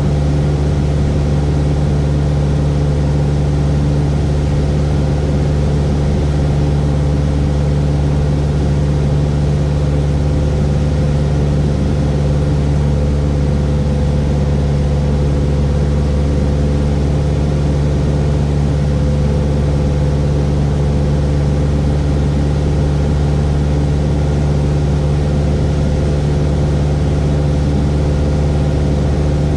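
Cessna 172S's four-cylinder Lycoming engine and propeller droning steadily in cruise-descent, a constant low hum with no change in pitch.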